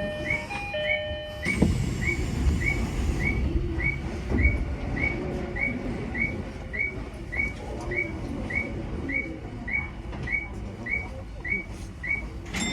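Tokyo Metro 10000 series train running, with a steady rumble under a short, high electronic chirp repeating about twice a second. A chime of a few steady tones stops about a second and a half in, just as a short hiss is heard.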